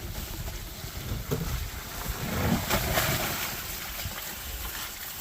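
Water pouring and sloshing out of a tipped wagon onto the ground, swelling toward the middle.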